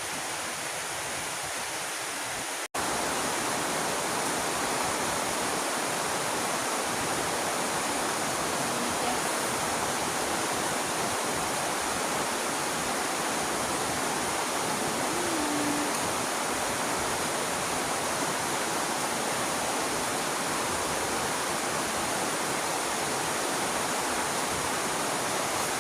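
Heavy rain falling as a steady, even hiss. It cuts out for an instant about three seconds in, then carries on slightly louder.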